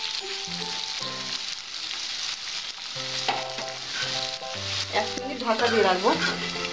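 Potato batons coated in salt and turmeric frying in hot mustard oil in an aluminium kadai, with a steady sizzle; a spatula stirs them at first. Background music plays along.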